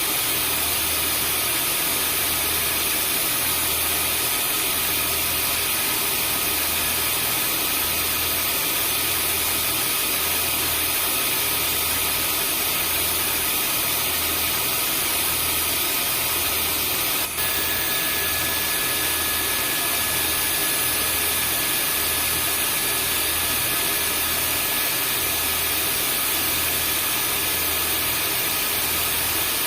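Vacuum cleaner running steadily: a loud, even rush of air and motor with a thin high whine and a low hum that pulses about once a second. About 17 seconds in there is a brief click, after which one of the whine tones changes slightly.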